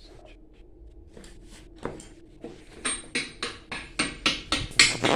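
Hammer strikes on metal: a fast run of taps, about three or four a second, getting louder, as the new bearing bushing of the booster pump is driven into place.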